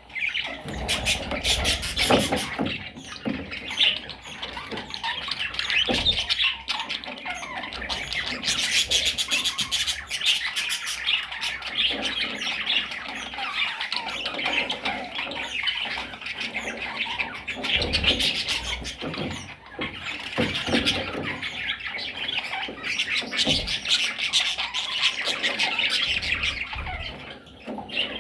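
A group of budgerigars chattering and squawking continuously, with rapid warbling and sharp calls.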